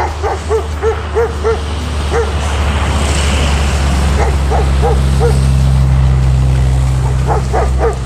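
A dog barking in quick runs of short barks, about three a second, in several bouts, over a steady low rumble.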